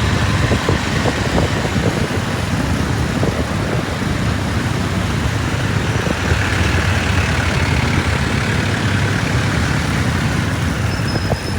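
Motorcycle running on the move, with a steady low engine hum under wind and road noise, and other traffic around it.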